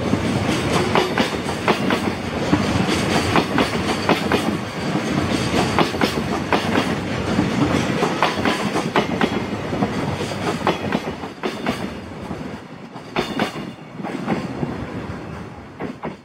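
Freight train of empty container flat wagons rolling past, its wheels clattering rhythmically over the rail joints. The clatter eases off over the last few seconds as the end of the train goes by.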